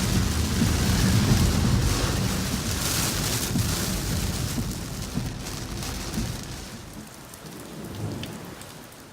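Heavy thunderstorm: rain pouring down over a long low rumble of thunder, fading over the last few seconds.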